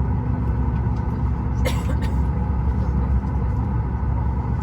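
Steady low rumble with a constant hum from a Boeing 737 MAX 8 airliner, with one short click about a second and a half in.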